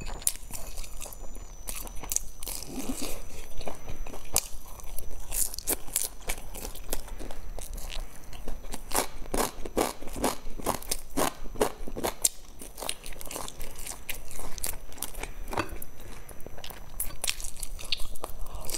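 Chewing and crunching of pan-fried dumplings with browned, crisp crusts: a steady run of short sharp crunches and mouth sounds, densest around the middle.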